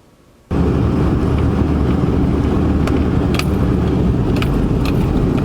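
Steady road and wind noise inside a pickup truck's cab at highway speed in strong gusting wind, cutting in suddenly about half a second in, with a few faint light clicks.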